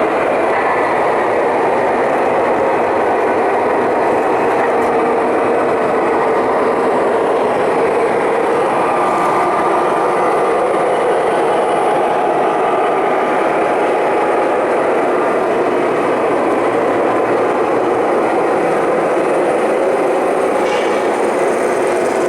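An O-scale model train running steadily on the layout's track: a continuous rolling noise of wheels and motor.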